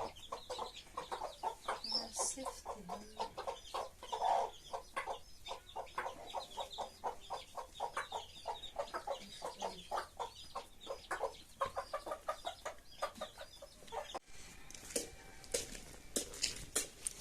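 A flock of chickens clucking in a rapid, continuous chatter. Near the end the clucking stops abruptly, and a series of sharp taps or clicks follows.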